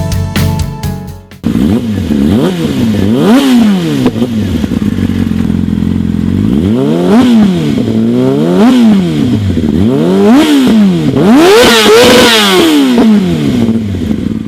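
Scooter engine revved up and let fall back several times in a row, each rev a rise and fall in pitch lasting about a second, starting after music cuts off about a second and a half in.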